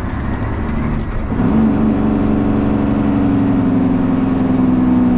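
Straight-piped 12.7-litre Detroit Diesel Series 60 in a Freightliner truck, loud. It runs rougher and softer for about the first second, then comes back on the throttle, rising briefly before holding a steady pull.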